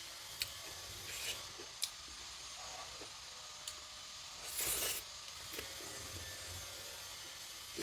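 Close-up eating sounds: a few light clicks, then a short rustling crunch about halfway through, as food is handled and eaten by hand.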